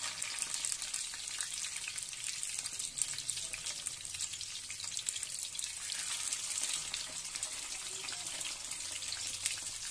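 Bitter gourd frying in hot mustard oil in a kadhai: a steady sizzle with dense fine crackles.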